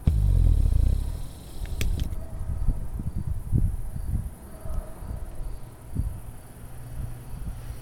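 Thunder rolling: a low rumble that breaks in suddenly, is loudest in the first second, then keeps rumbling in uneven swells.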